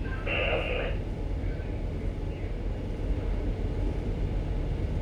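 Steady low rumble of a ship's machinery during slow manoeuvring, with a brief crackle from a two-way radio about half a second in.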